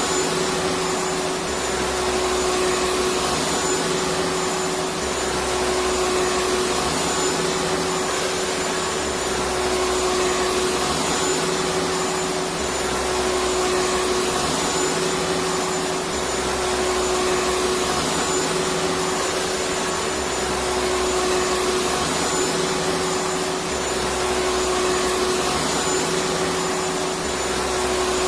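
Electric vacuum cleaner running steadily: a continuous even rush of air with a steady motor hum, unchanging in level.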